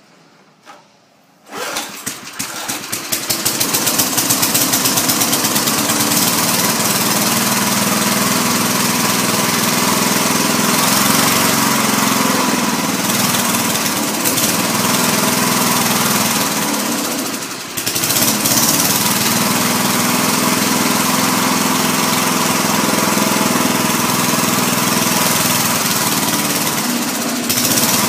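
Small lawn mower engine catching about a second and a half in, picking up speed over a couple of seconds and then running steadily. About two-thirds of the way through it sags briefly and picks back up.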